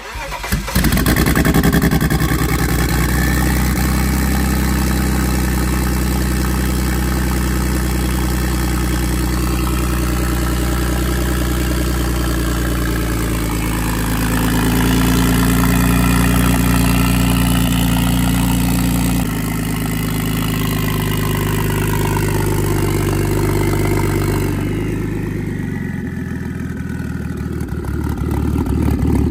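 Single-turbo BMW N54 3.0-litre straight-six starting from cold on E85. It fires and flares briefly, then settles into a slightly rough cold idle whose level rises and falls a few times.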